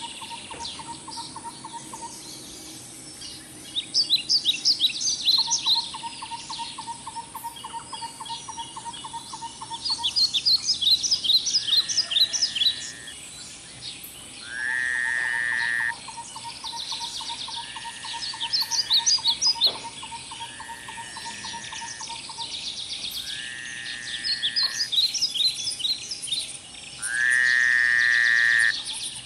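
Birdsong: bursts of quick high chirps every few seconds, over long stretches of a fast, even ticking trill. From the middle on, a short rising whistled note recurs every couple of seconds, and the longest, loudest whistles come about halfway through and near the end.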